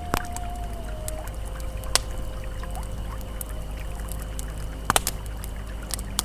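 Campfire crackling, with a few sharp pops, over the steady rush of a flowing river. Soft held ambient music tones sound faintly underneath.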